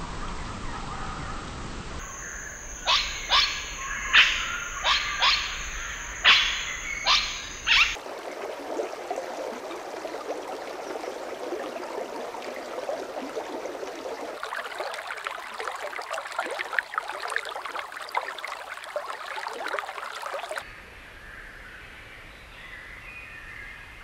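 Birds calling, cut together from several clips: a run of about nine loud, sharp calls a few seconds in, then a dense, continuous chorus of chirping, and softer calls near the end.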